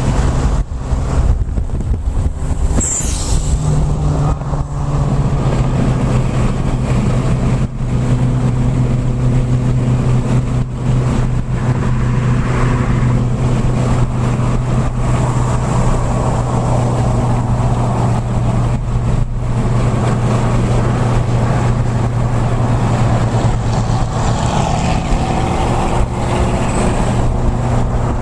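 Car engine running at a steady speed with road noise, its note stepping up slightly a few seconds in and then holding.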